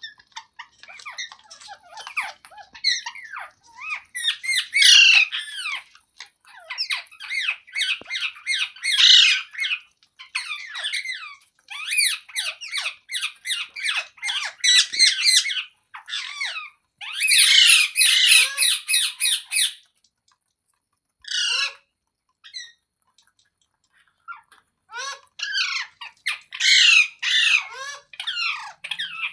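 Parrot squawking in rapid runs of short, shrill screeches, several bursts of a few seconds each, with a pause of a few seconds past the middle.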